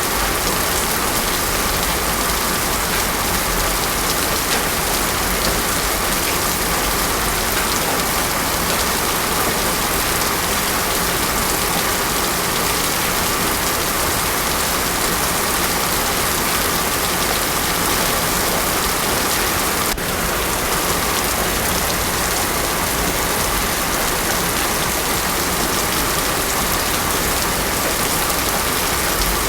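Heavy rain falling steadily on a road, a dense even hiss that does not let up.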